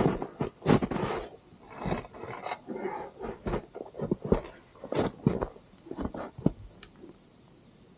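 Irregular knocks, scrapes and rustles of gear being handled, with no saw running; they stop about seven seconds in.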